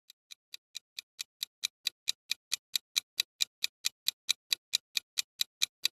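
Clock-like ticking sound effect, an even tick about four and a half times a second, growing louder over the first two seconds and then steady, like a countdown timer.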